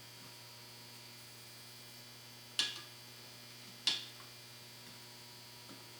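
Two short, sharp clicks about a second and a half apart, a little under halfway through, over a steady electrical hum: a pocket knife working at the gasket on the carburetor body to trim it flush.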